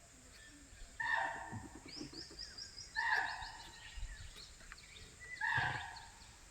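A wild fowl-type forest bird gives three loud calls about two seconds apart, with a quick rattling series between the first two.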